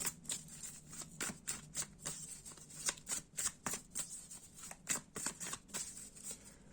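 A deck of tarot cards being shuffled by hand: a rapid, irregular run of card flicks and snaps, several a second.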